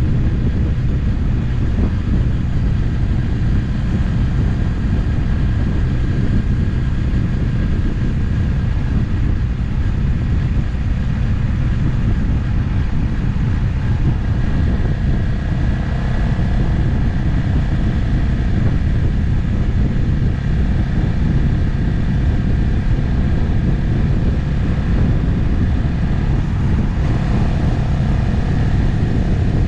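Motorcycle riding at a steady cruising speed: the engine runs evenly with no gear changes or revving.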